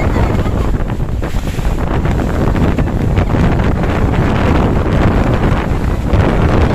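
Strong wind blowing against the microphone: loud, steady wind noise.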